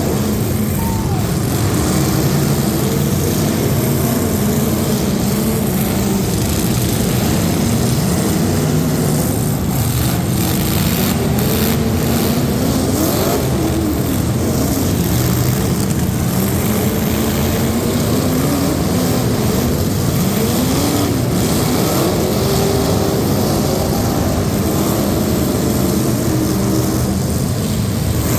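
Competition truck engines running loud, revving up and down over and over.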